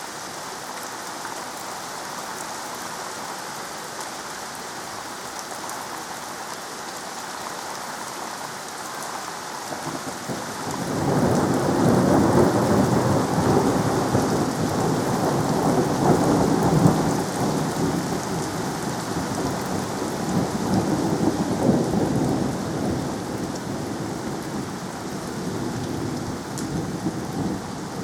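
Steady rain falling, then about ten seconds in a long roll of thunder builds, peaks over a few seconds and slowly rumbles away while the rain keeps on.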